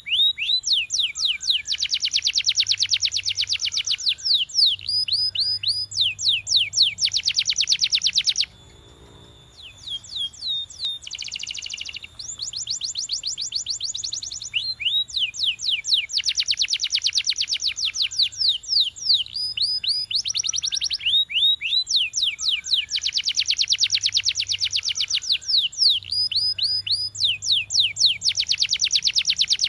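Canary singing: fast trills of repeated sweeping notes in runs of a second or two, with a short break about a third of the way through before the song picks up again.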